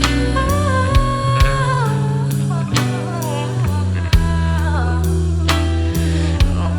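Music: a rock band playing between sung lines, with drums keeping a steady beat, a bass line, and a lead melody that bends up and down in pitch over them.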